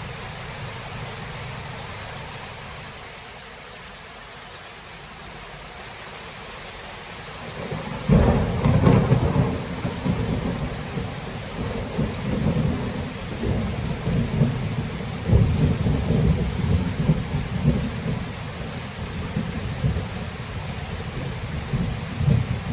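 Steady rain with a sudden clap of thunder about eight seconds in, followed by a long rolling rumble of thunder.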